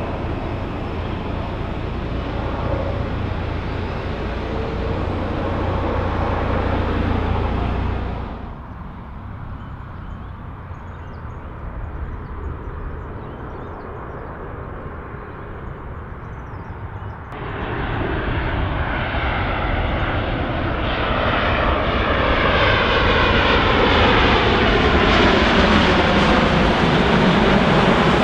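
Large jet airliners' engines during landing approaches: a steady jet roar that drops away abruptly about 8 seconds in. It returns about 17 seconds in and builds steadily louder, with a sweeping, phasing tone, as the next airliner comes closer.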